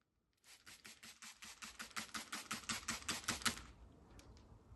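Trigger spray bottle of Elbow Grease degreaser being pumped rapidly, about twenty quick hissing squirts at around six a second, stopping after about three seconds.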